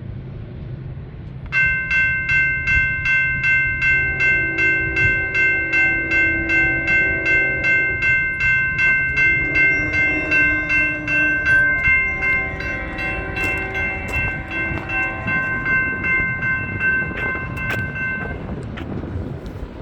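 Railroad crossing bell ringing rapidly and evenly, about two and a half strokes a second. It starts abruptly a second and a half in and stops abruptly near the end, over a low steady rumble.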